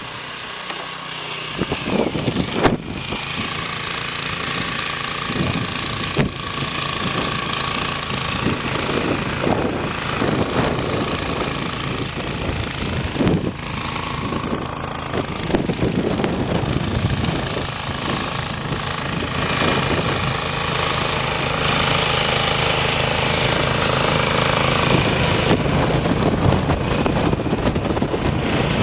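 Small engine running steadily with a rapid, rough pulsing, from about a second and a half in.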